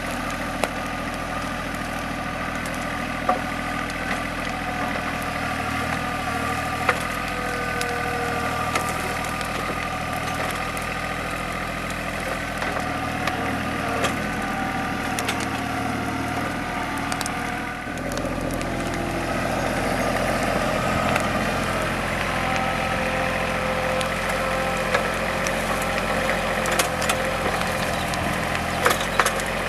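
TYM compact tractor's diesel engine running steadily, with scattered sharp cracks and snaps of wood. The engine sound shifts abruptly about two-thirds of the way through.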